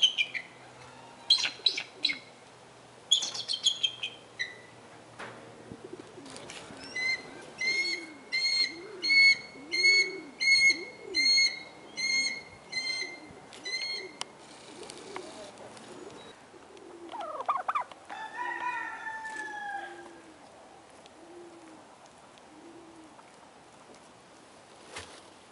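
Several birds calling. Sharp high falling calls come in the first few seconds, then a run of evenly spaced ringing calls at about two a second over low cooing, and a longer rising-and-falling call past the middle.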